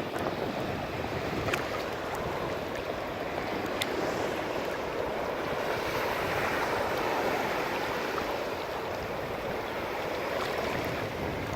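Ocean surf: waves breaking and washing ashore as a steady rushing that swells and eases, with a couple of faint sharp ticks.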